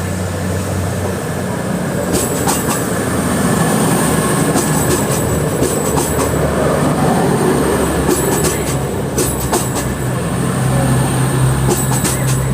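A train moving on the rails: a steady low hum, with clusters of sharp clicks every second or two as its wheels cross rail joints. The hum grows louder near the end.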